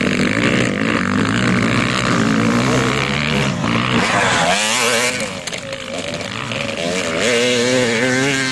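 Racing motorcycle engines revving up and down as the bikes ride through, the pitch rising and falling with the throttle; the engine sound drops away briefly around five seconds in and picks up again around seven.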